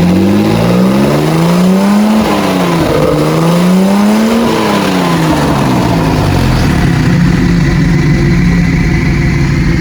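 1960 Maserati 3500GT straight-six engine running on a test stand, revved twice, each rev climbing for about two seconds and then dropping back, before settling into a steady idle.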